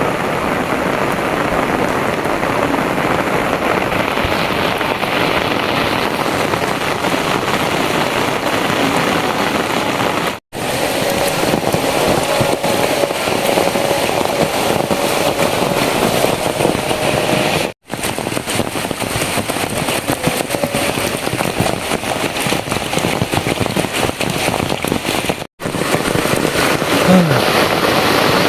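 Heavy rain pouring steadily, a loud, even hiss. It is broken by three brief silences where the recording cuts.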